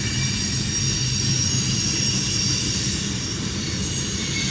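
Freight cars of a CSX mixed freight rolling past: a steady rumble of steel wheels on rail, with thin high squealing tones from the wheels above it.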